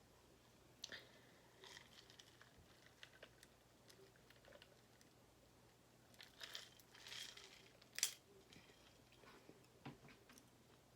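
Faint close-up eating sounds: scattered soft crunches and chewing clicks, with a crinkly rustle about six to seven seconds in and one sharp click a little after.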